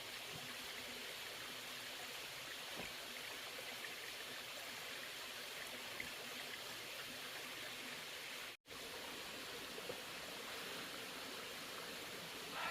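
Steady rushing noise of running water, like a stream, broken by a sudden momentary dropout to silence about two-thirds of the way through.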